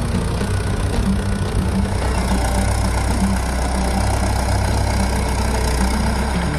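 Belarus MTZ-2 tractor's diesel engine running steadily, its low rumble growing heavier about two seconds in.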